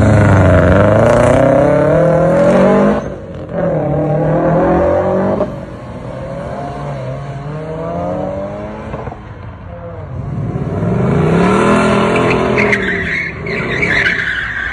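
Car engines revving, their pitch rising and falling, in several short segments that cut off abruptly; a higher squeal comes in near the end.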